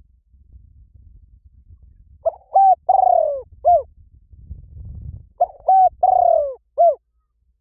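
A bird calling twice, each call a phrase of four or five short arched notes with a longer falling note in the middle, over a faint low rumble.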